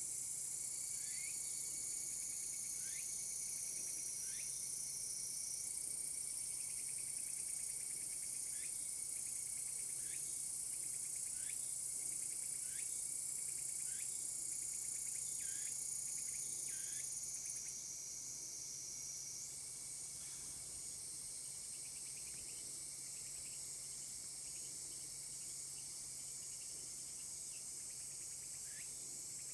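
A chorus of cicadas shrilling steadily and high-pitched, the chorus shifting in pitch twice and easing slightly past the middle, with short sliding chirps repeating every second or two over it.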